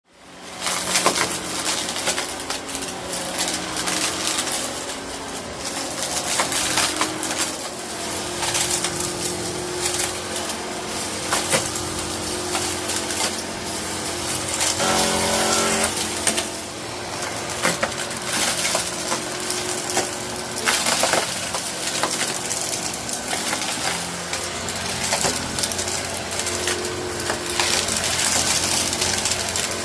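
Eureka Innova Upright Whirlwind vacuum cleaner running and sucking up aquarium gravel, the small stones rattling and clattering through it constantly over the steady motor hum.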